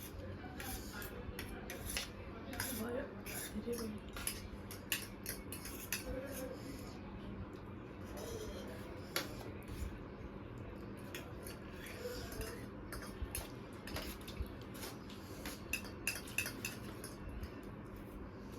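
Metal spoons clinking and scraping against plates while people eat, with many short, irregular clicks throughout.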